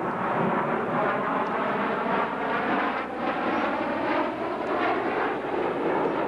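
Military jet aircraft flying over, a steady continuous jet engine noise.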